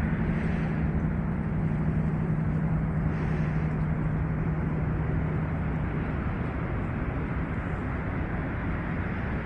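Steady engine hum over a rushing noise, the hum fading away about six seconds in.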